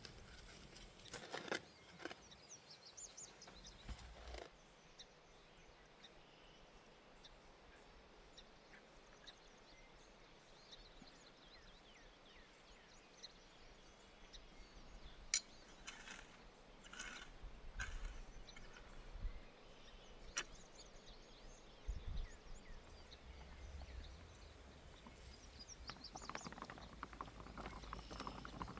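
Quiet outdoor ambience with faint scattered bird chirps, broken by a few sharp clicks and light knocks, the strongest about halfway through.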